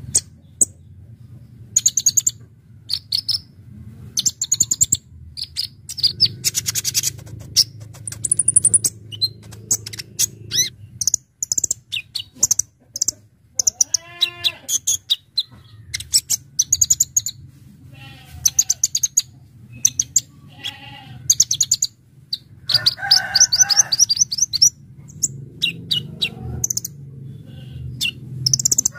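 Little spiderhunter (kolibri ninja) singing: rapid, sharp, high-pitched chirps and trills in bursts throughout, over a steady low hum.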